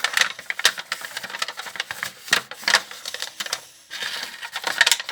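A sheet of paper being folded in half and creased by hand: irregular crinkling and crackling ticks.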